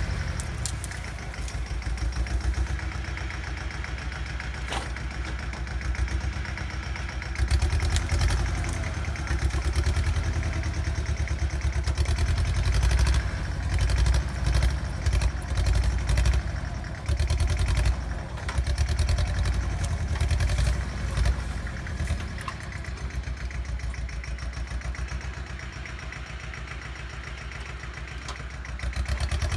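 Bolens G194 garden tractor engine running, its loudness swelling and easing every few seconds as the scraper blade drags and pushes dirt, with some clatter from the machine.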